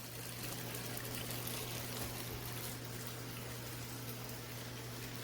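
Compact top-load washing machine running with water in the tub: a steady rush of water over a constant low hum.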